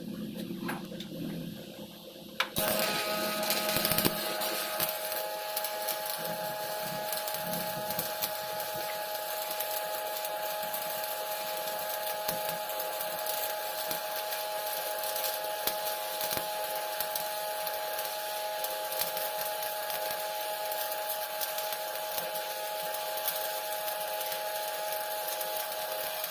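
Shielded metal arc welding with a 6013 electrode on carbon steel pipe, laying the hot pass: the arc strikes suddenly about two and a half seconds in, then crackles and sizzles steadily, with a steady hum in it.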